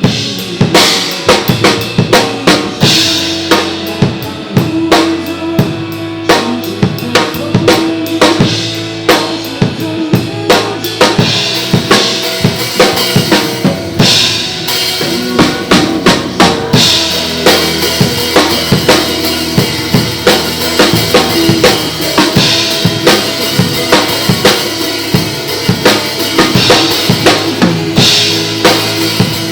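Drum kit played live in a steady rhythm over a recorded backing track, with regular hits and cymbal crashes every several seconds.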